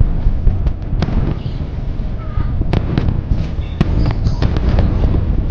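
Aerial fireworks display going off: a dense run of sharp cracks and bangs over a continuous low rumble of booming shells.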